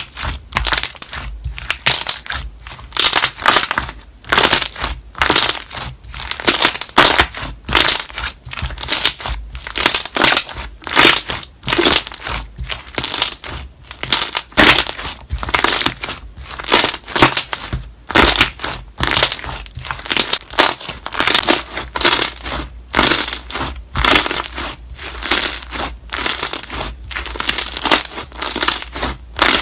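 A large batch of slime being squeezed and pressed by hand, its trapped air bubbles popping in repeated squishy bursts, about one a second.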